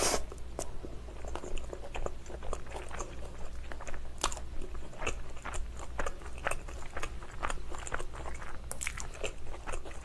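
Close-miked chewing and biting of thin-crust pizza: the crisp crust crunches and crackles in many short, irregular clicks, with another bite taken near the end.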